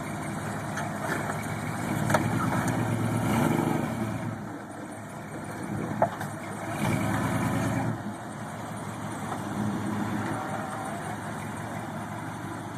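Truck engine revving in repeated surges between lower running, with a couple of short sharp knocks along the way.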